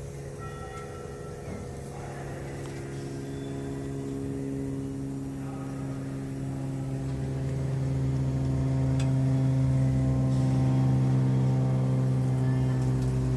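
Diesel engine of a 2008 Sterling HX9500 truck heard from inside the cab, running at a steady pitch and growing gradually louder.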